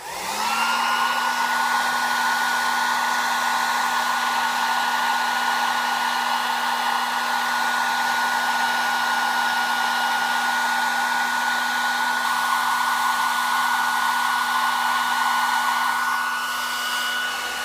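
Handheld hair dryer switched on at its low setting: the motor spins up, then runs steadily, a constant whine over the rush of air.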